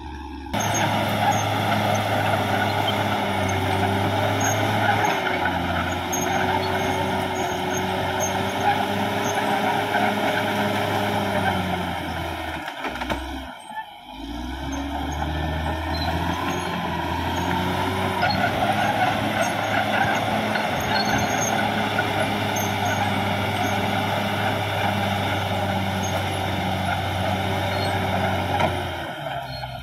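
Caterpillar D6R XL bulldozer's diesel engine running under load, its pitch shifting as it works. The sound briefly drops away about halfway through.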